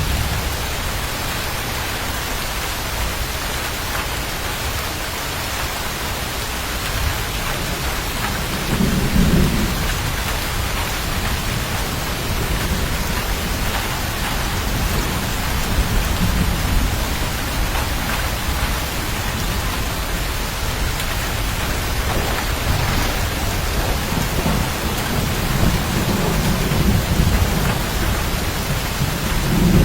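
Steady heavy rain with low rolls of thunder: one about nine seconds in and another building near the end.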